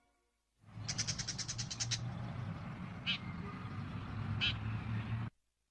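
Outdoor ambience: a low steady rumble under a bird that gives a quick rattling run of chirps about a second in, then two short single chirps. It all cuts off suddenly near the end.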